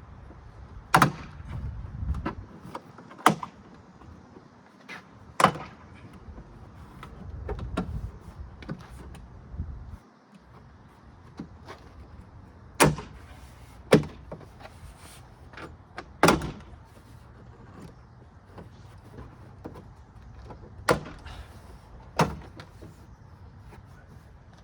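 Sharp plastic snaps, about eight of them spaced irregularly, with handling noise in between: pressure clips popping loose as the tailgate's interior trim panel is pried off.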